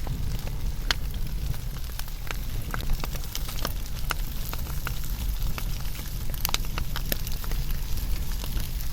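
Wood fire burning steadily, with a low rumble of the flames under a hiss and frequent sharp, irregular crackles and pops of the burning logs.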